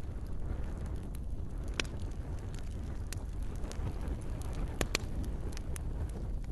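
Campfire crackling: scattered sharp pops and snaps over a steady low rumble, with the loudest pops about two seconds and five seconds in.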